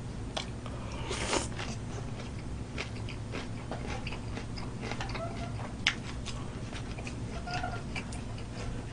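Close-up chewing of fresh napa-cabbage kimchi, with wet crunches and smacks, and light clicks of wooden chopsticks against a griddle plate; a sharp click near six seconds is the loudest sound. A steady low hum runs underneath.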